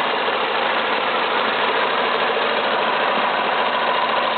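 British Seagull single-cylinder two-stroke outboard motor running steadily.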